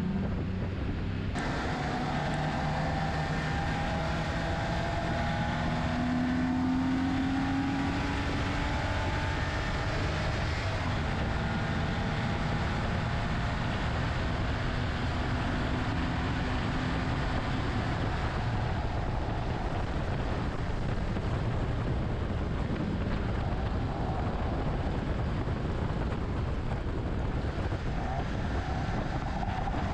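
BMW E30 engine running hard at lapping speed, its pitch rising and falling with throttle and gear changes, over a steady rush of wind and tyre noise.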